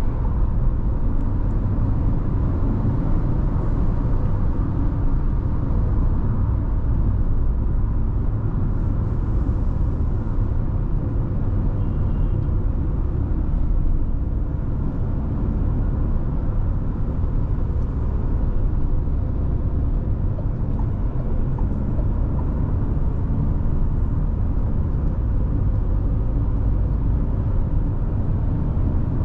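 Steady running noise of a Nissan Tekton 1.3-litre turbo petrol SUV cruising on the highway: a constant low rumble with a faint steady whine.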